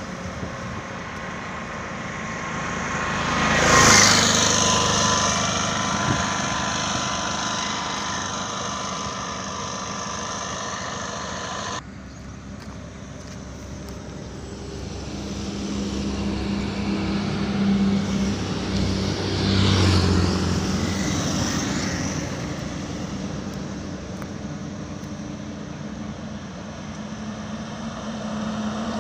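Road vehicles driving past, with a steady engine and road noise. One swells up and falls away about four seconds in, and another does the same about twenty seconds in.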